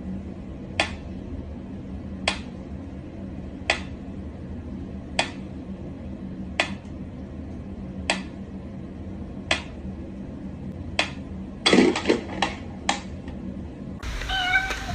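Sharp taps repeating evenly about every second and a half, eight in a row, then a quick flurry of several taps, over a steady low hum.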